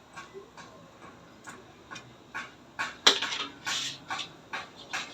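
A series of irregular light clicks and knocks, the loudest a sharp clack about three seconds in.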